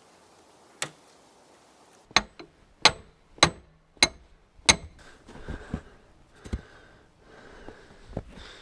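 Hammer blows on a stuck steel pin in a plow's hydraulic ram mount, driving it out. After a single strike there is a run of about six sharp, ringing metallic blows roughly half a second apart, then lighter knocks.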